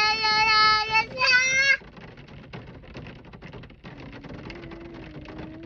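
A young girl singing a long held note, then a higher one, breaking off about two seconds in; after that, steady rain falling, much quieter than the singing.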